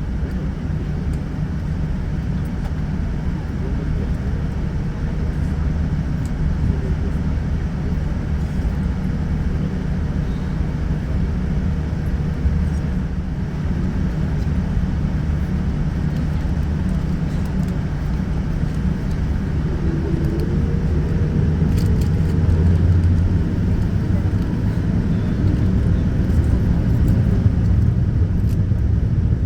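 Cabin noise inside a Boeing 787-9 airliner: a steady low rumble from the Rolls-Royce Trent 1000 engines and the airframe as it taxis and moves into the takeoff, growing a little louder in the second half.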